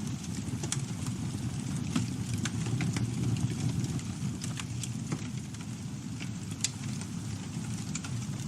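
Campfire burning: a steady low rumble of flames with irregular sharp crackles and pops from the burning wood, several a second.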